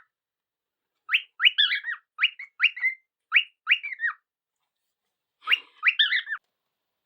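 White-faced cockatiel chirping: a quick run of about eight short rising-and-falling calls, then after a pause three or four more.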